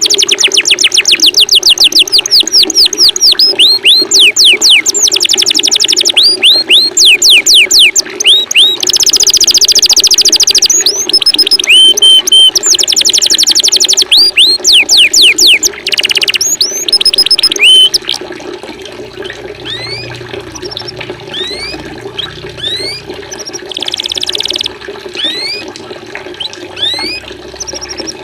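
Recorded songbird song mixed over steady running water: loud rapid trills of fast down-sweeping whistled notes give way, about two-thirds of the way through, to sparser, quieter rising chirps. The water runs as a steady low wash.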